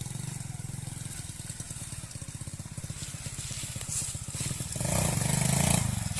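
Small single-cylinder dirt bike engine running at idle, with the throttle opened a little and the engine getting louder about five seconds in.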